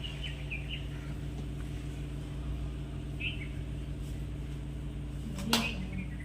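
A steady low mechanical hum, with a few short bird chirps near the start and again about three seconds in, and one sharp click or knock about five and a half seconds in.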